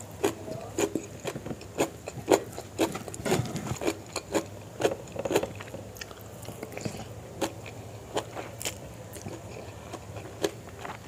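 Close-miked mouth sounds of eating rice and chicken liver and gizzard curry by hand: wet chewing and lip smacks, a run of short, sharp, irregular clicks that thin out in the second half.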